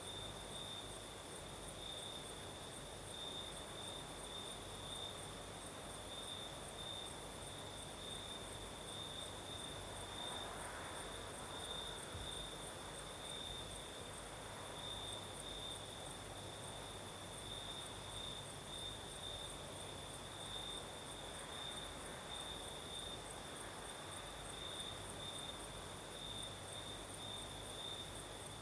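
Crickets chirping in a steady, even pulse, with a second higher-pitched insect trilling above them, over a soft rush of night breeze that swells a couple of times.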